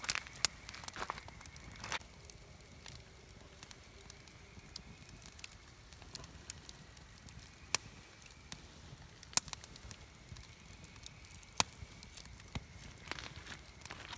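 Wood campfire burning, crackling irregularly with a few loud sharp pops. A faint steady high whine comes and goes behind it.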